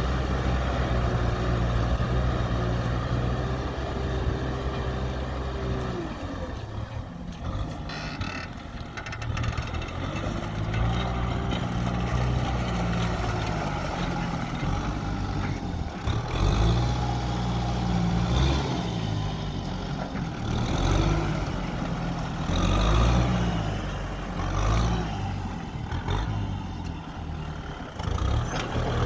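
Kubota tractor's diesel engine running under load while plowing a wet rice paddy. Its note is steady at first, drops about six seconds in, then rises and falls repeatedly as the load changes.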